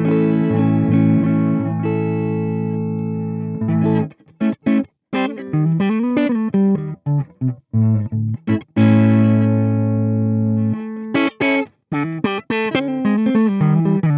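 Electric guitar with humbucking pickups played through a Peace Hill FX TR tube preamp. A chord is held and rings for about four seconds, then short choppy chords follow with a note bent up and back down. Another chord rings briefly, and quick, clipped chords come near the end.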